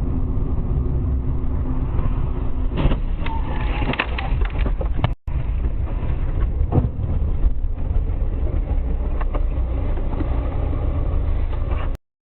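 Car road and engine noise, dense and steady, with several sharp knocks about three to five seconds in and a few more later. The sound cuts out briefly a little after five seconds.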